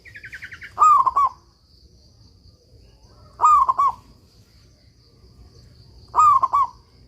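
Zebra dove (perkutut) cooing: three short, loud coo phrases about two and a half seconds apart. A quick falling trill of higher notes comes just before the first, and a faint steady high tone runs behind.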